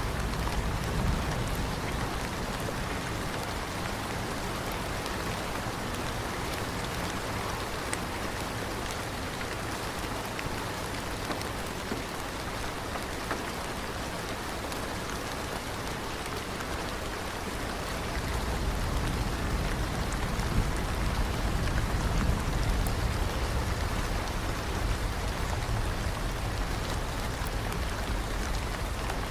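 Steady rain falling, an even hiss of drops on a surface. A low rumble sits under it at the start, and swells up again about two-thirds of the way through, making the rain sound heavier.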